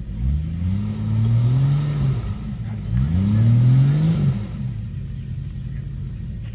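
Jeep Wrangler engine revved hard twice as it tries to climb a rock ledge, each rev rising in pitch and then dropping back to a low idle rumble.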